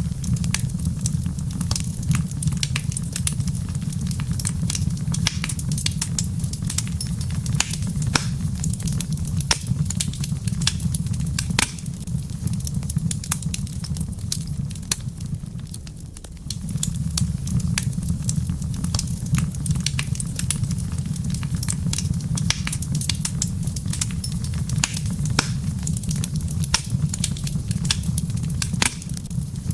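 Wood fire crackling in a fireplace: frequent sharp pops and snaps over a steady low rumble that eases for a few seconds midway.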